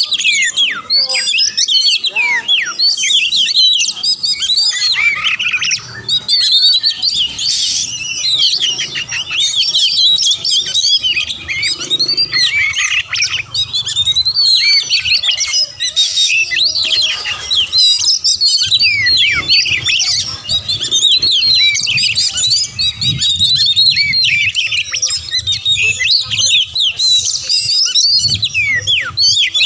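Oriental magpie-robin (kacer) singing a fast, unbroken stream of varied whistles and chattering notes, all quick rising and falling glides.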